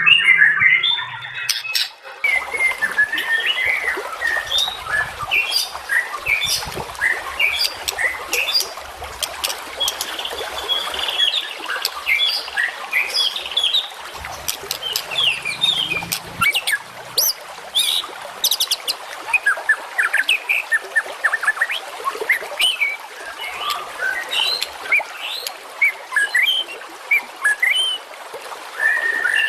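Many songbirds chirping and calling at once: a dense, overlapping chorus of quick high notes and short sweeps over a steady hiss. The sound changes abruptly about two seconds in, as if to a new section of recording.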